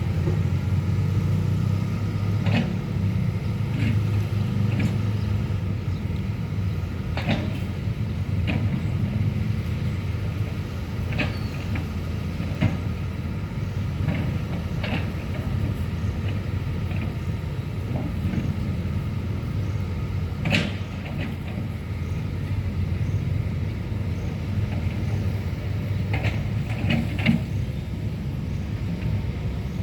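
Excavator's diesel engine running steadily under load while it digs soil, with scattered sharp metal clanks and knocks from the bucket and arm, the loudest about two-thirds of the way through.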